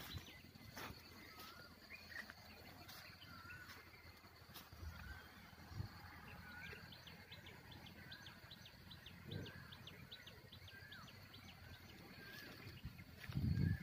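A bird repeating a short warbling call about once a second, over a steady high tone. A quick run of ticks comes in the middle, and there are a few low thumps.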